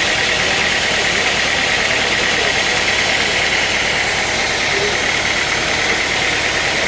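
Sawmill machinery running steadily with a constant engine drone and no change in pace.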